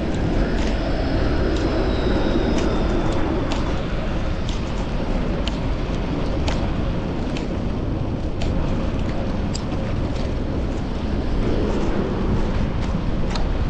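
Steady rumbling wind and road noise on a chest-mounted action camera while riding a fixed-gear bicycle through city traffic, with a light tick about once a second.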